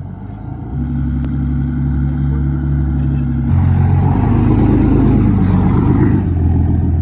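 A vehicle engine running loudly at a steady pitch, getting louder in two steps: once about a second in and again about halfway through.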